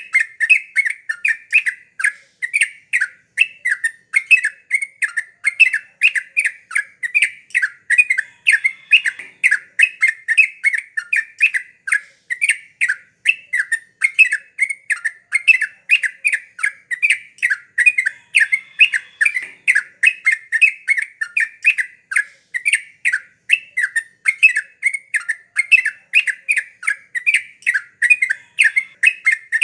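Sooty-headed bulbul (trucuk) singing in a lively, unbroken run of short bubbly notes, several a second.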